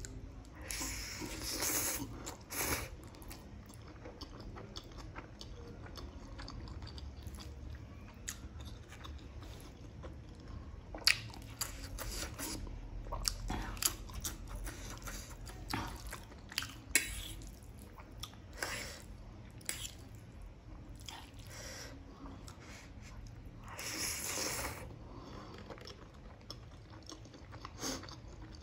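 Close-miked chewing of masala instant noodles, wet and soft, broken by many short sharp clicks. There are two longer noisy bursts, one just after the start and one about three quarters of the way through.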